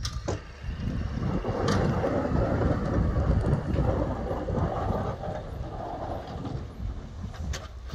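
Snow-clearing vehicle running, a low rumble that swells about a second in, with a few sharp clicks over it.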